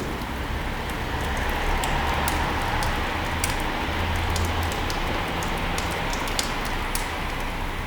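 Fire burning in a fireplace: a steady rushing hiss of flames with scattered sharp crackles and pops at irregular intervals.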